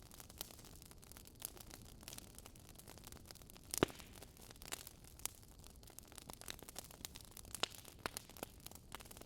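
Fire crackling in a fireplace: a stream of irregular sharp pops and snaps over a soft hiss, with one louder pop a little under four seconds in.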